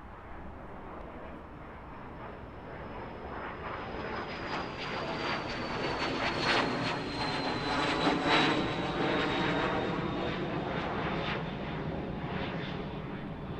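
Fixed-wing aircraft flying overhead: the engine noise swells to its loudest about halfway through and then fades slightly, with a thin high whine that falls slowly in pitch as it passes.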